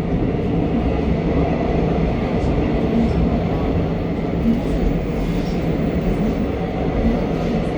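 Line 3 subway train running, a steady rumble heard from inside the carriage.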